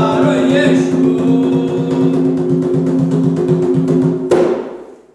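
Hand drums beating a fast rhythm under held singing, as in an Umbanda ponto. It ends on one sharp final stroke about four seconds in, then dies away to silence.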